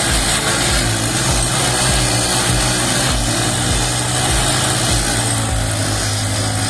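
Two single-cylinder four-stroke commuter motorcycles, a Bajaj Platina and a TVS Star City, held at high revs and pulling against each other in a tug of war. Their engines run loud and steady under load.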